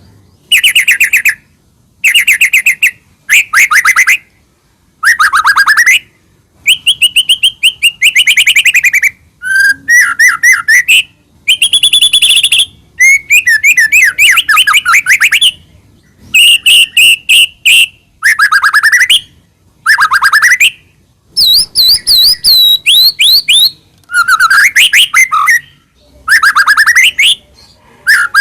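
White-rumped shama (murai batu) singing loudly and continuously, in phrases of one to two seconds with short gaps between them. Each phrase is a fast string of rapidly repeated notes and quick rising and falling whistles.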